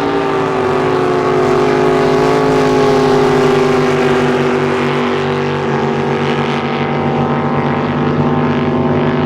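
Drag boat engine running loud at a steady pitch, holding the same revs throughout.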